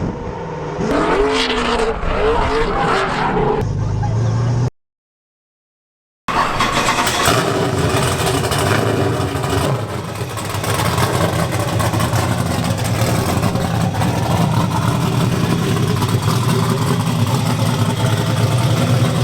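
6.0-litre LS V8 (LQ9) of a 240SX drift car revving in rising and falling sweeps. It cuts to silence about five seconds in, then comes back running hard at steady high revs.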